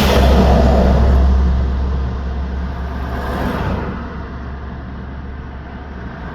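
Road traffic passing: a vehicle goes by loudly at the start and fades away over the next second or two, a second, lighter pass comes about three seconds in, and a steady deep rumble runs underneath.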